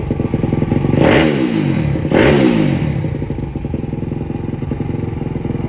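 Single-cylinder 190 cc pit bike engine blipped twice, its pitch jumping up and falling back each time, then settling to a steady idle; its carburettor has just been cleaned and it runs clean without bogging.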